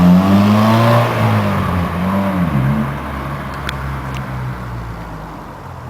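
Honda Civic Coupe 1.6's four-cylinder engine and exhaust being revved: the revs peak about a second in and fall, a short blip follows near the middle, then the engine drops back toward idle and grows quieter.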